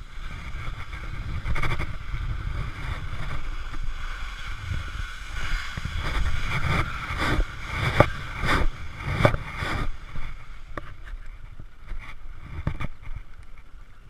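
Low wind and rolling rumble on a GoPro camera carried on a moving bicycle. A run of sharp knocks and rattles comes in the middle.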